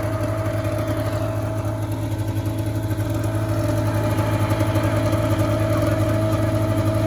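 A 2001 Polaris 500 liquid-cooled two-stroke twin snowmobile engine idling steadily, freshly started after repair, growing a little louder about halfway through.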